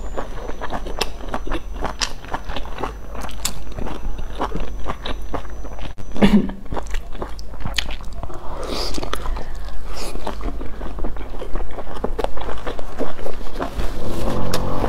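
Biting and chewing of pan-fried dumplings close to the microphone, with many small irregular wet mouth clicks and smacks.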